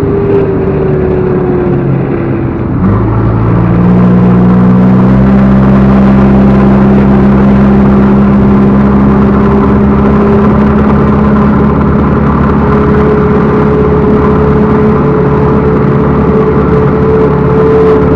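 Backhoe loader's diesel engine running, revving up about three seconds in and then holding steady at the higher speed.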